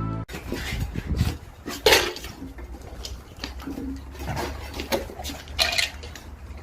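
Clattering and knocking of hard objects: a run of sharp knocks, the loudest about two seconds in, with another cluster near the end.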